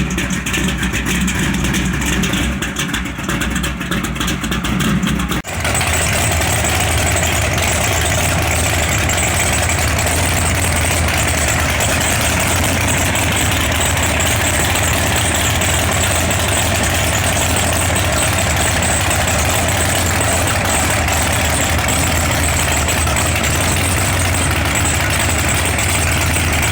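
A car engine running at a steady idle, with a strong low hum and a faint high whine; the sound changes abruptly about five seconds in, as if from one recording to another, then stays steady.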